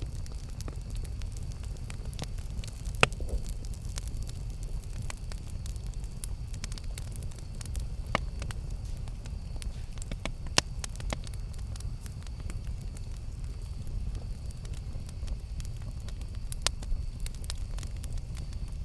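Campfire burning: a steady low rumble of flame with irregular sharp crackles and pops of burning wood, a few louder pops about 3, 8 and 10.5 seconds in.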